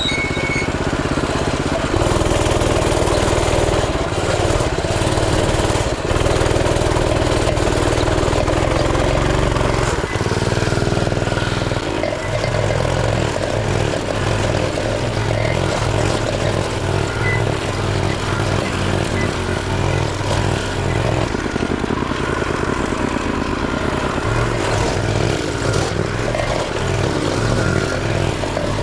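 Coleman CT200U mini bike's small single-cylinder four-stroke engine running under way, its engine speed shifting up and down several times as the throttle changes.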